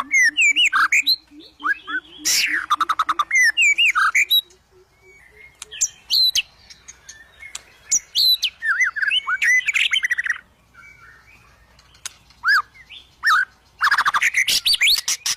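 White-rumped shama singing in agitated fighting mood: bursts of loud, varied whistles, sweeping notes and rattling trills. A fast run of low notes climbs slowly in pitch through the first few seconds, and a dense burst of rapid ticks and whistles comes near the end.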